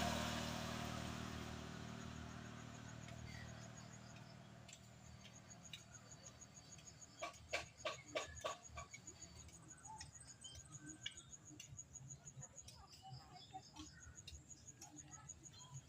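A passing vehicle fading away over the first few seconds, leaving quiet outdoor ambience with a faint, high, rapid chirping trill that comes and goes and a short run of sharp clicks about halfway through.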